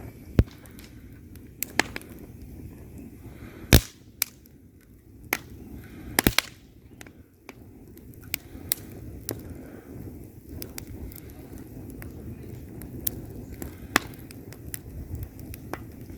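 Wood fire burning in a fireplace: a low steady rumble of flames with frequent sharp crackles and snaps from the burning logs. The loudest pops come about a second into the fire, near four seconds, and near six seconds.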